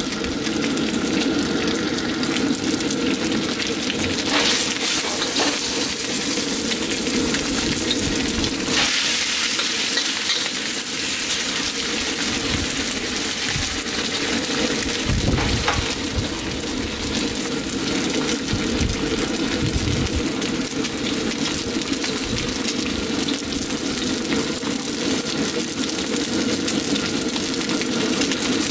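Marinated chicken pieces sizzling steadily in hot oil in a seasoned wok, with a spatula stirring and scraping them around the wok now and then. A propane burner's steady rush runs underneath.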